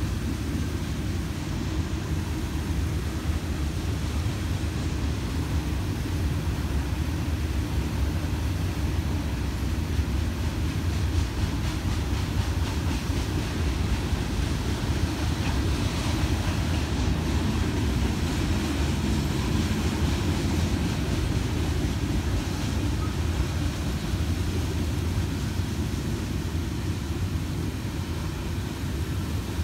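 Freight cars of a Florida East Coast Railway train rolling past a grade crossing, a steady low rumble with a light clatter of wheels over the rails.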